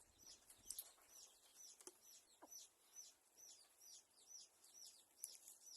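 Faint, high bird chirps, one short arched note repeated steadily about three times a second.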